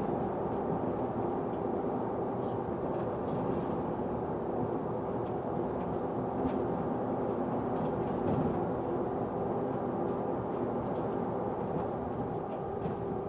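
Bus running, heard from inside the passenger saloon: engine and road noise with an odd whine that holds one constant pitch.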